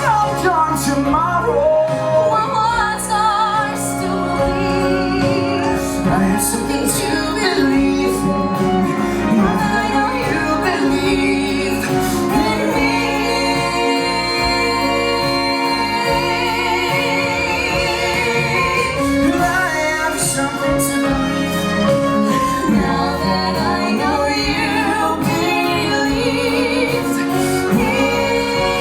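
Musical-theatre singing over orchestral accompaniment: a female voice carries a slow ballad, holding long notes with vibrato.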